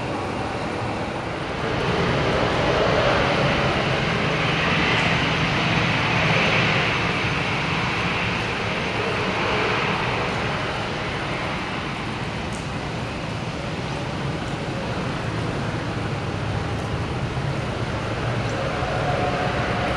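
Airbus A321neo jet engines running steadily, louder about two seconds in and easing slightly after the middle.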